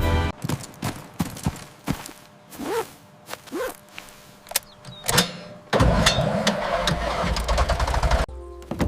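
Cartoon sound effects: scattered knocks and clicks and two short squeaky glides, then a loud engine rumble from about six seconds in that cuts off abruptly.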